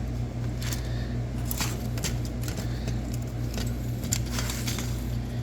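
Scattered small clicks and rattles of hands working on a battery charger's plastic case and screws as it is taken apart, over a steady electrical hum.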